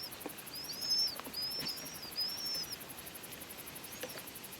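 Montagu's harrier chicks begging for food with thin, high-pitched arching calls. Several come in quick succession over the first three seconds, then one faint call follows about four seconds in.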